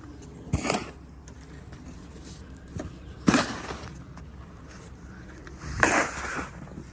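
Snow being cleared by hand: three short scraping strokes, evenly spaced about two and a half seconds apart, each starting with a dull knock.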